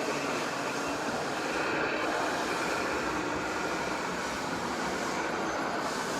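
Radio-controlled scale model trucks and tractors running: a steady mechanical whirr of small motors and gearing.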